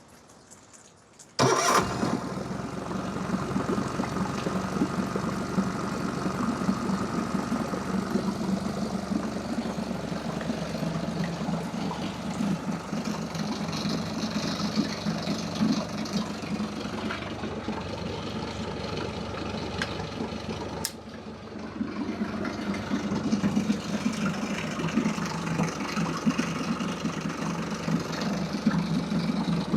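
2006 Nissan 15 hp four-stroke outboard motor starting up about a second and a half in, then running steadily while sitting in a test bucket of water. Its sound drops briefly about two-thirds of the way through, then picks up again.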